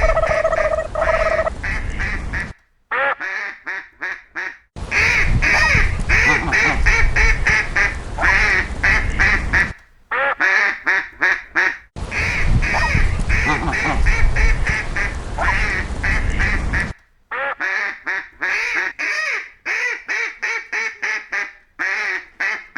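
Ducks quacking in quick runs of several quacks a second, with short breaks between the runs. A steady tone sounds under the quacks in the first second and a half.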